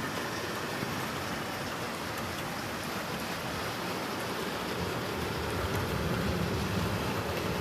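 Rain falling steadily, an even hiss of drops. About five seconds in, a low rumble swells for a couple of seconds.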